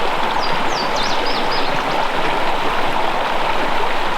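Fast-flowing brook rushing steadily over rocks. Within the first second and a half a songbird gives several faint, high, down-slurred notes over the water noise.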